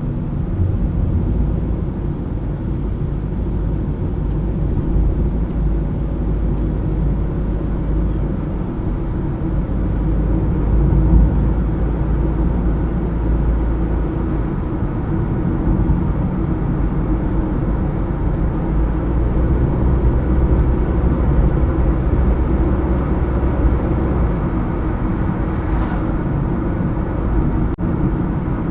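Car driving along a highway: a steady low rumble of engine and tyres on the road.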